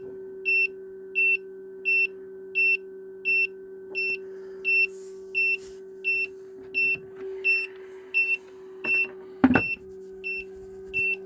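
Small egg incubator's temperature alarm beeping steadily, about three short high beeps every two seconds, over a steady low hum, while the incubator warms back up. A single knock about nine and a half seconds in.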